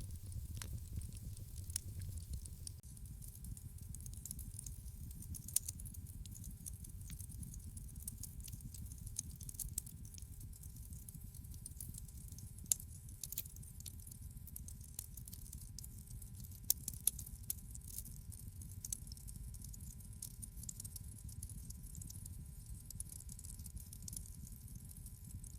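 Wood fire in a fireplace burning with a steady low rumble. Irregular small crackles run throughout, with a few sharper pops standing out.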